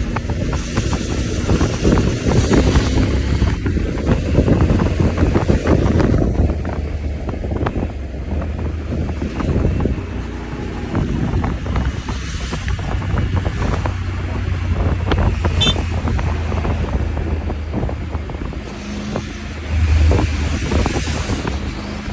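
Wind buffeting the microphone on a moving motorcycle, with the engine and road noise running underneath and swelling about two-thirds of the way through.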